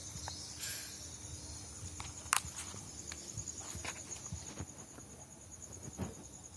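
An insect trilling steadily at a high pitch in rapid, even pulses, with a few scattered clicks and rustles; the sharpest click comes about two seconds in.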